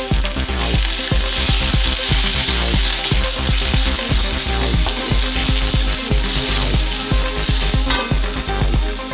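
Oil sizzling steadily in an aluminium wok as fried tofu, shallots, garlic and red chilies are stir-fried with a wooden spatula, with background music underneath.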